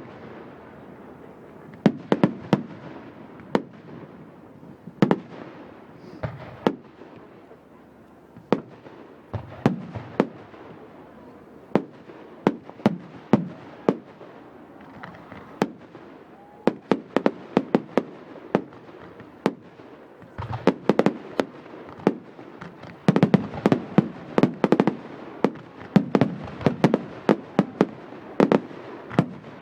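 Fireworks going off: many sharp bangs and crackles, coming in dense flurries, with the thickest ones in the second half.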